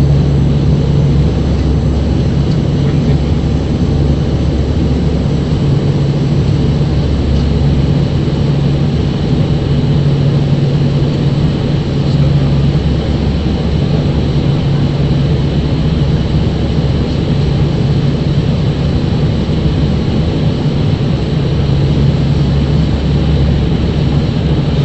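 Steady engine and airflow noise inside an airliner's cabin in flight, with a low humming tone that swells and fades every few seconds.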